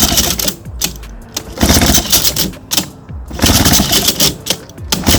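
Old Johnson 10-horsepower two-stroke outboard being pulled over by its recoil starter several times, each pull a quick rattling burst of cranking about every second and a half. The engine does not catch.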